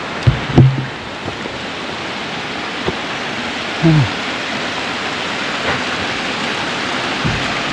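Steady rush of heavy rain and storm run-off water flowing down a flooded mountain trail, with a couple of short grunts or vocal sounds near the start and about four seconds in.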